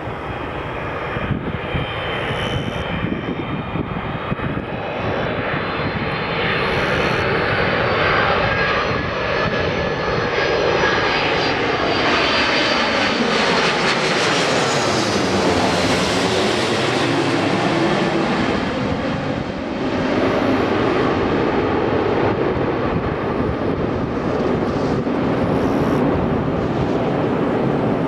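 Airbus A330-200 airliner on landing approach passing the listener: loud steady jet engine noise that swells over the first few seconds, with whining fan tones that slide down in pitch as the plane goes by about halfway through.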